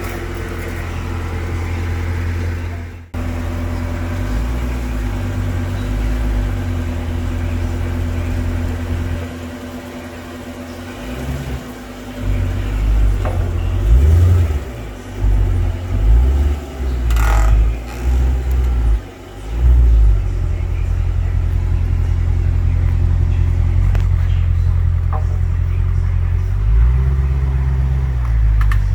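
Dodge Challenger 1320's 392 HEMI V8 on its stock exhaust, mid mufflers still fitted. It runs at a steady idle, then takes several quick throttle blips, the pitch rising and falling, between about 12 and 20 seconds in, and one more near the end.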